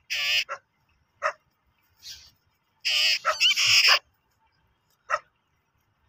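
Harsh, grating calls from black birds fighting each other on the ground, coming in short bursts. A longer run of loud calls falls between about three and four seconds, and a single short call comes near the end.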